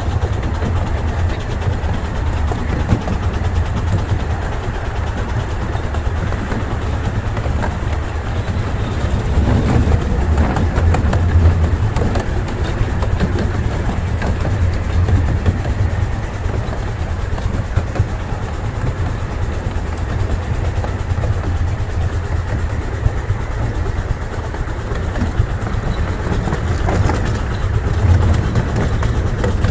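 Ride-along sound of a small-gauge passenger train running along the track: a steady low rumble of wheels on rail with scattered clicks.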